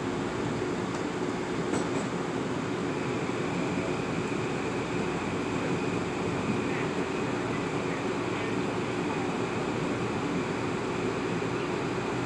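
Metro-North M8 electric multiple-unit car running at speed, heard from inside the car: a steady rumble of wheels on rail with a constant hum. A faint high whine comes in about two seconds in.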